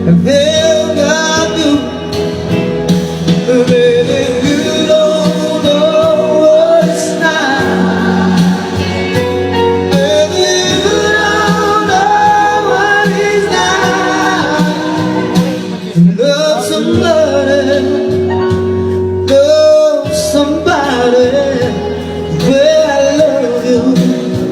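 A young man singing a slow melody with long, held notes that bend in pitch, over instrumental accompaniment.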